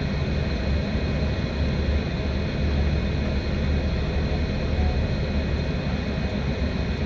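Steady low rumbling noise, strongest in the deep bass and wavering slightly in level, with no distinct events.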